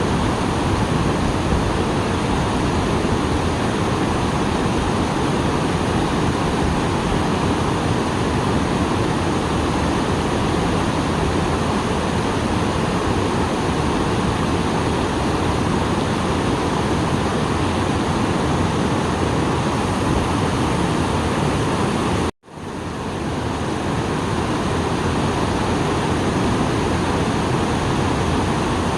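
Small waterfall running full after rain: a steady rush of falling water. About three quarters of the way through it cuts out abruptly for an instant, then fades back in.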